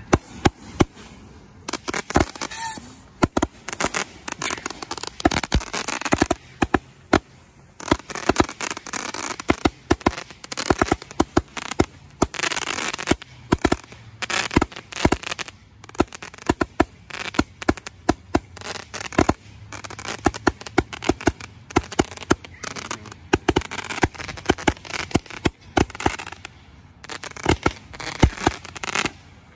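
Fireworks going off: a long, irregular run of sharp bangs and crackling, several bangs a second at times, with only brief lulls.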